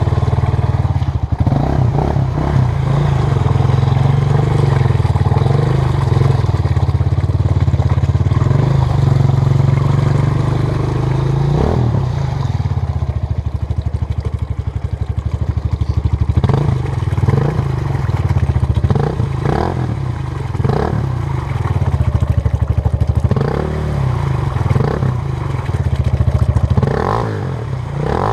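Honda CRF230 dirt bike's single-cylinder four-stroke engine running while riding a trail. It is fairly steady at first, then revs up and down over and over in the second half.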